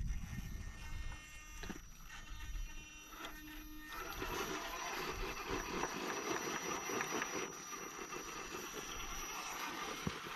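Shaft-driven RC rock crawler's electric motor and geared drivetrain whirring as it creeps over the course, faint at first and growing louder and denser about four seconds in.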